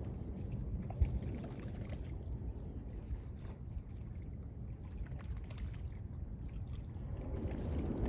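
Waves washing on a sandy beach, a steady low rumble of surf that swells again near the end.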